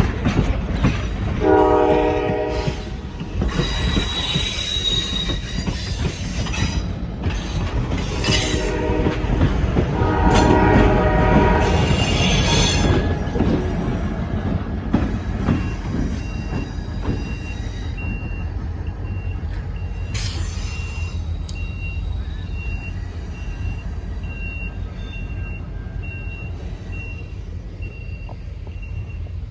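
A train rolling past, its wheels rumbling steadily on the rails with some high wheel squeal, and its horn sounding three blasts in the first dozen seconds. In the second half the rumble continues with a repeating high beep.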